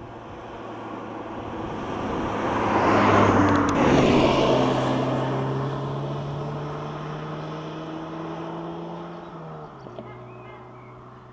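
2014 Audi S1 Sportback's turbocharged four-cylinder engine and tyres passing close by, loudest about three to four seconds in, with the pitch dropping as it goes past. The engine then pulls away under acceleration, its pitch slowly rising, and drops at an upshift near the end as it fades into the distance.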